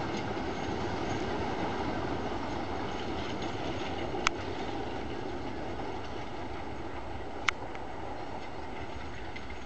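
Passenger train running away along the track, its rumble steadily fading as it recedes, with two sharp clicks about three seconds apart.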